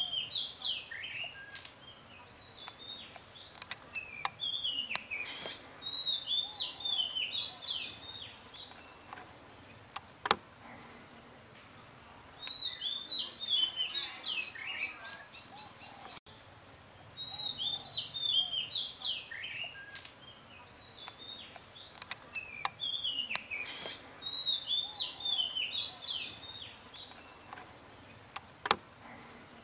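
Songbirds chirping in bursts of quick, rapidly repeated phrases every few seconds, with a couple of sharp taps in between.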